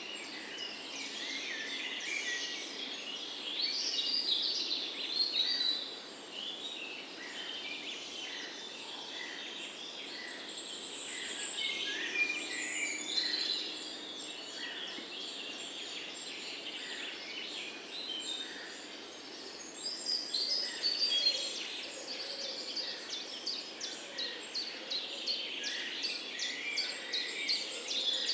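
Many songbirds chirping and singing at once, a dense chorus of overlapping short calls and warbles, with a fast trill running through the last third.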